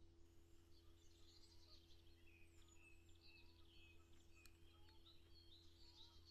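Faint birdsong, many short chirps overlapping, over a steady low hum, with a single faint click about four and a half seconds in.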